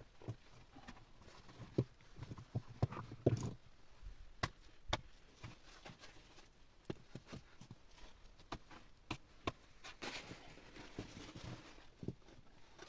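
Irregular light knocks and clicks from something being handled, a few of them louder about three seconds in, with a short rustle about ten seconds in.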